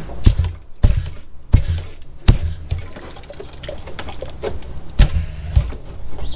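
Water splashing and running inside a blocked toilet stack pipe as a high-pressure drain jetter hose is fed in towards the blockage, over a low steady hum. Several sharp knocks come through it, the loudest about five seconds in.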